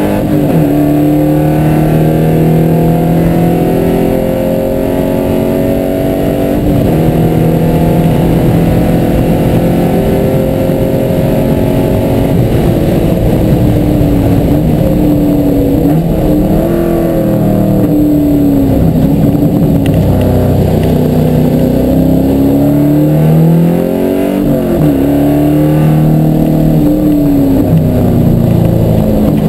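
A car's engine at racing revs, heard from inside the cabin: it pulls hard under full throttle and climbs in pitch, with a drop for an upshift about 7 seconds in. In the second half the revs fall and jump back up several times as the car brakes and downshifts for a corner.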